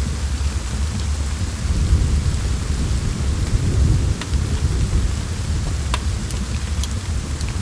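Steady rain hissing over a deep low rumble that swells about two seconds in and eases off past the middle. A handful of sharp crackles and pops from a wood fire in the second half.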